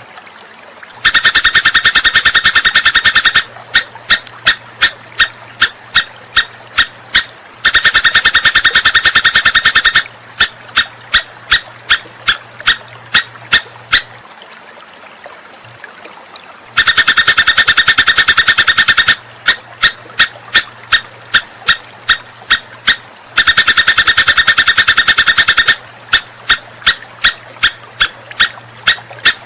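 Looped songbird recording played as a song tutor ('masteran') for cage birds to copy. Four times, a rapid buzzy rattle lasts about two seconds. Between the rattles come runs of sharp chips, about three a second.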